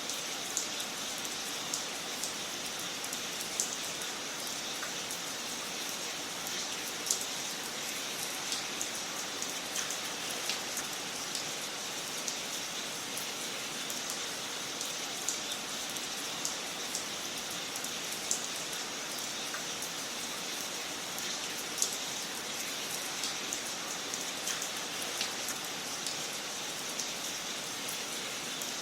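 Wood fire crackling in a fireplace: a steady hiss with scattered sharp pops and snaps at irregular intervals, a few of them louder.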